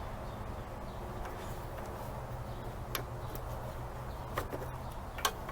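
Steady low hum of workshop background noise with a few light clicks, about three, from small parts being handled near the end.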